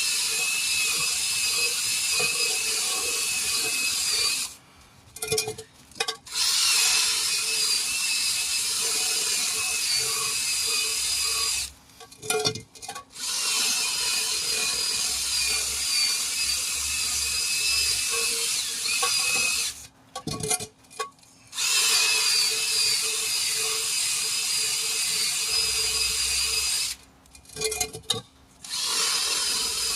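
Cordless drill spinning a wire brush against a wheel rim, scouring rust and old rubber off the bead seat to prepare it for bead sealer. It runs steadily in long stretches of six to seven seconds, stopping briefly four times with short trigger blips in the pauses.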